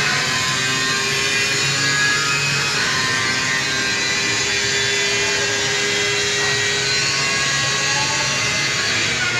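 Ferrari Formula 1 engine running at high revs: a steady, high-pitched scream with many overtones and little change in pitch.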